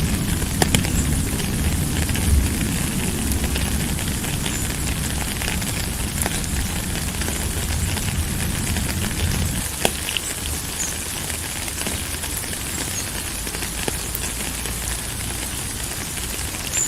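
Steady rain hiss with scattered sharp drips and crackles. A low rumble underneath dies away about ten seconds in.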